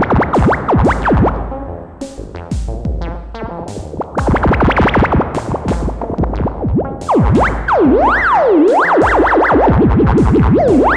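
Sequenced synth bass line processed through Befaco FX Boy effect cartridges, its pitch swooping rapidly up and down in zigzag glides, with sharp clicky hits over it; quieter for a moment about two seconds in.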